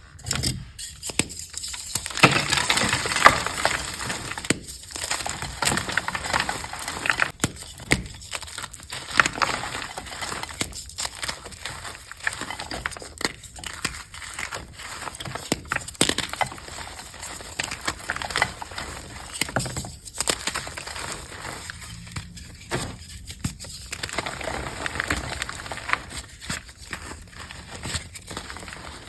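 Reformed gym chalk being crushed, with dense, irregular crunching and crackling.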